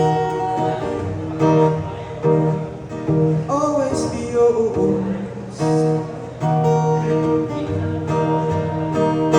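Acoustic guitar strumming chords in a steady rhythm, with a short hummed or wordless vocal phrase about four seconds in.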